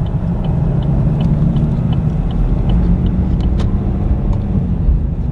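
Car interior road and engine noise while driving, a steady low rumble, with a light regular ticking about twice a second.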